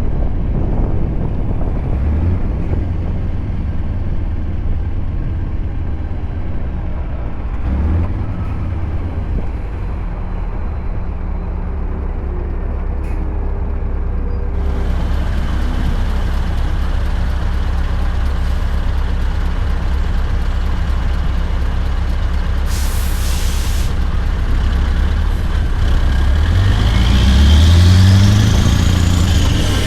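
Scania R580's straight-piped V8 diesel running with a steady deep rumble. About 23 s in, a short hiss of air from the air brakes. Near the end the engine revs up and back down as the truck pulls away.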